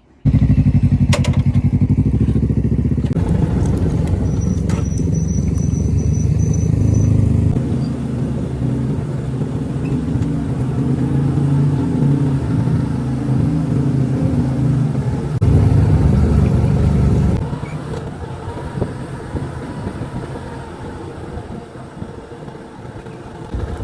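Motorcycle engine running while riding. It comes in abruptly and loud at the start and drops noticeably quieter about seventeen seconds in.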